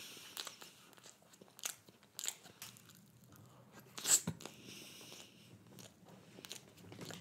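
Close-up chewing of a mouthful of soft banana pancake with whipped cream, quiet mouth clicks and smacks scattered throughout. One sharper click about four seconds in.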